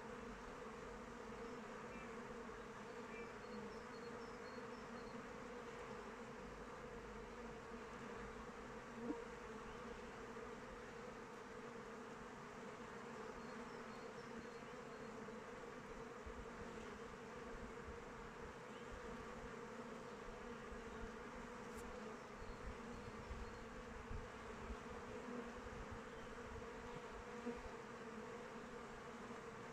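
Honeybees flying around their hive, a continuous many-winged buzzing hum that holds steady throughout. A single brief tap sounds about nine seconds in.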